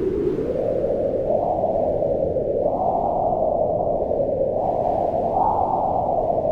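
Wind blowing steadily, a low rushing sound that swells in gusts. Its pitch rises about three seconds in and again near five and a half seconds, then eases back down.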